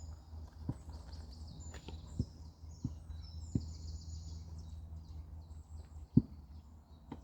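Songbirds singing over a low, steady hum, with a handful of sharp knocks spread through, the loudest about six seconds in.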